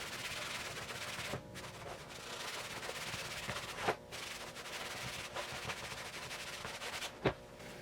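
A cloth rag rubbing gear oil onto a faded plastic front spoiler, a steady scratchy rubbing with a few light knocks along the way.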